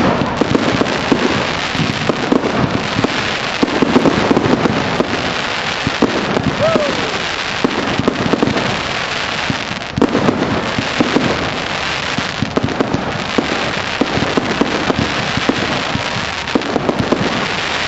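Fireworks display going off: continuous crackling and popping with many sharp bangs from bursting shells, and a brief falling whistle about six and a half seconds in.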